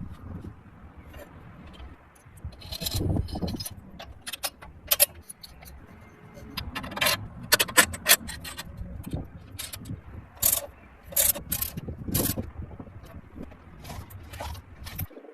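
Irregular scraping and sharp clicks of hand work on metal parts.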